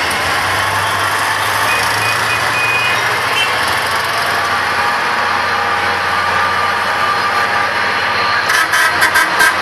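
A heavy vehicle's engine running steadily amid loud outdoor noise, with a quick run of sharp knocks near the end.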